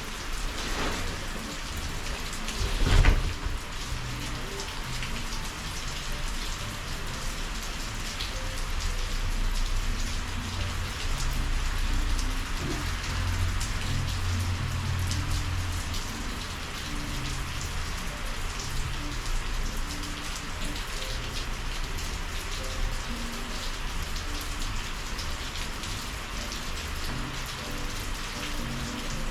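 Steady heavy summer rain, many close drops ticking and splashing, with a low rumble swelling and fading underneath. One sharp, louder knock or splash about three seconds in.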